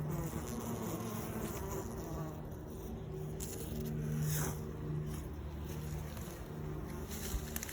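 Many honeybees from a wild colony buzzing together in a steady hum, swelling briefly about four seconds in.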